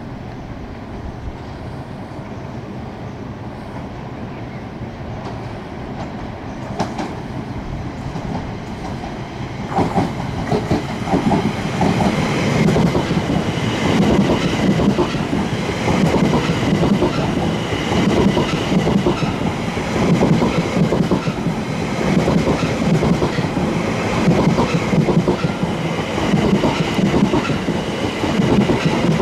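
Train approaching and running past, its wheels clattering over the rail joints. The sound builds over about the first ten seconds, then stays loud and rhythmic.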